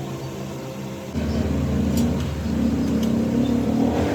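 An engine running loudly and steadily, starting abruptly about a second in and cutting off near the end; a steady lower hum is heard before it.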